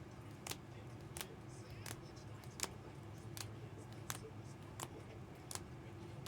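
Light, sharp clicks from trading cards being flipped or set down one after another, evenly paced at about one every 0.7 seconds.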